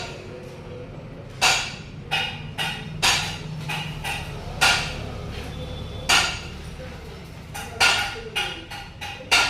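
Sharp metal knocks and clinks at irregular intervals, about ten in all, each ringing briefly: tools striking metal engine parts during a tractor crankshaft fitting.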